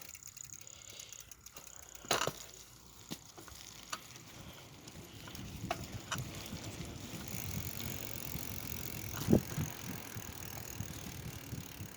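A bicycle being ridden: scattered rattling clicks from the bike, with a low rumble that builds from about halfway through. Two louder knocks, one about two seconds in and one about three quarters of the way through.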